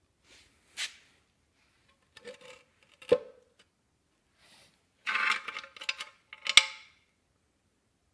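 Metal clinking and knocking: a few separate sharp strikes with brief ringing, with a cluster of clinks about five seconds in, like metal parts being handled.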